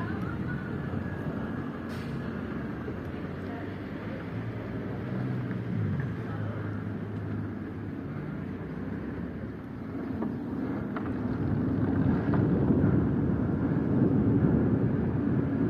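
Outdoor ambience: a steady low rumble with faint voices, growing louder about ten seconds in.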